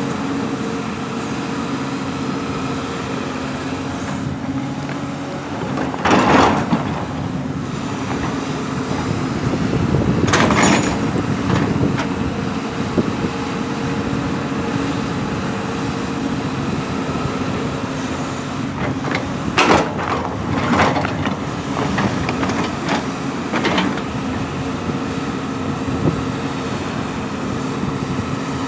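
Heavy diesel construction machine engine running steadily. Several short, loud noisy bursts come over it: one about six seconds in, another around ten seconds, and a cluster about two-thirds of the way through.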